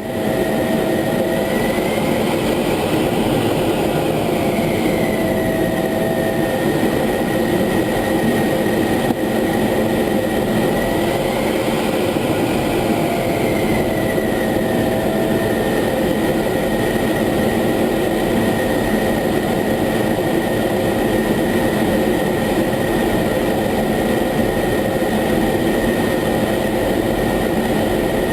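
F-16 fighter jet's engine heard from inside the cockpit: a steady running noise with a constant high whine, which swells up in pitch and settles back twice in the first half.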